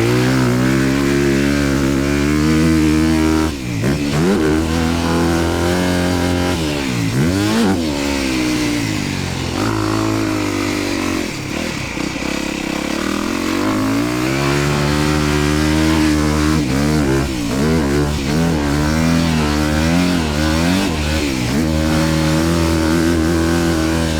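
Honda dirt bike engine on a motocross track, revving up and down as the rider accelerates, shifts and rolls off the throttle over the jumps; the revs drop and climb again several times, with quicker swings near the end.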